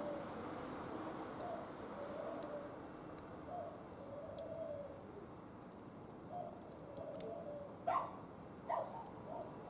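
Low cooing calls repeating about once a second, with faint crackling from a wood fire, and two louder sharp sounds near the end.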